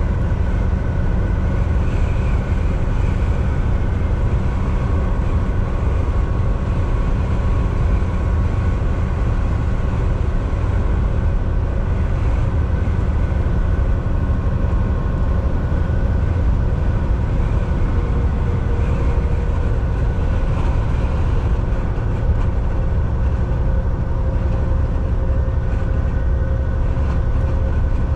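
Volvo VNL 760 semi truck cruising at highway speed, heard from inside the cab: a steady, deep engine drone and road rumble with faint steady whines above it.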